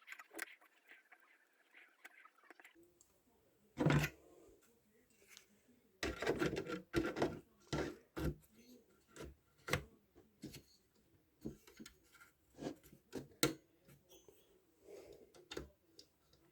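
Irregular clicks and knocks of small hard objects being handled, with a louder knock about four seconds in and a busy run of knocks a couple of seconds later.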